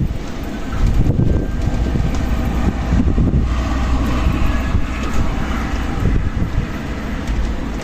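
Strong desert wind blowing in gusts, buffeting the microphone with a deep rumble and a faint whistle.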